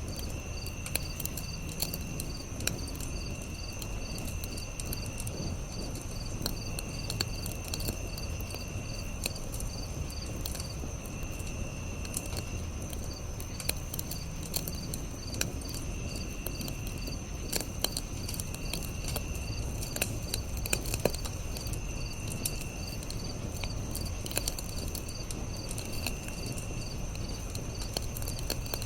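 Campfire crackling, with scattered sharp pops over a low steady rumble of flames, against crickets chirping in a steady fast pulse and a higher insect trill that comes and goes in bursts of about two seconds.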